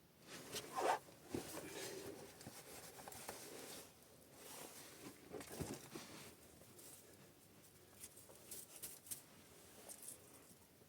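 Irregular rustling and scraping handling sounds in bursts, loudest in the first few seconds, with a few sharp clicks later on.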